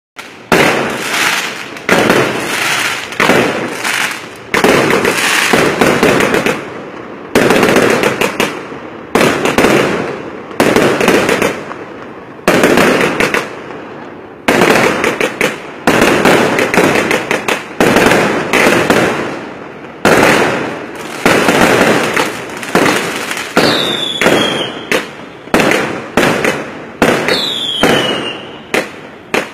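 Fireworks going off in quick succession: sharp bangs about every second or two, each trailing off in crackle. Twice near the end a short whistle falls in pitch.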